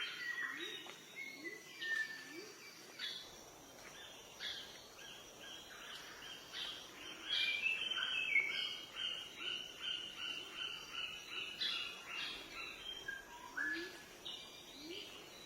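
Several forest birds singing over a faint steady rush of a waterfall, with whistled and falling notes at the start and a fast run of repeated notes in the middle. Short low rising calls repeat about twice a second at the start and again near the end.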